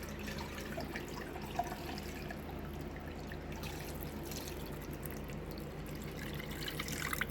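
Chicken stock pouring from a pot through a mesh strainer into a bowl, a steady trickle and splash of liquid, with a few short clinks near the end.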